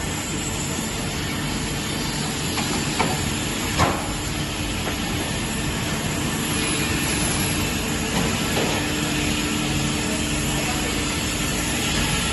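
Twin-spindle multi-blade circular rip saw machine running with a steady hum and hiss, with a couple of short knocks about three and four seconds in.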